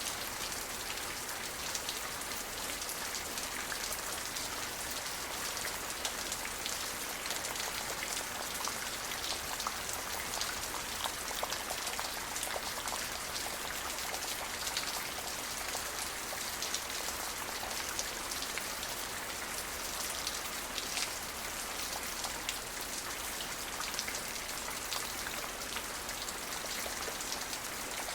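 Steady rain falling, a constant hiss dense with small drop ticks on surfaces.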